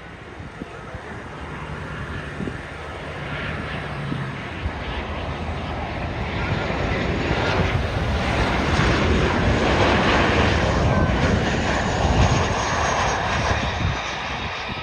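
A fixed-wing airplane flying past, its engine noise building steadily, loudest about two-thirds of the way through, then easing off.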